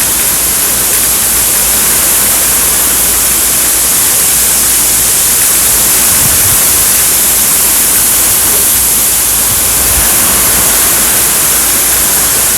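Heavy thunderstorm rain pouring down in strong wind, a steady loud hiss.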